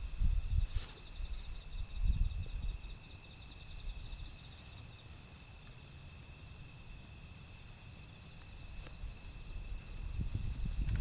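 Wind gusts buffeting the microphone in typhoon weather, strongest at the start and again near the end, over insects chirping steadily.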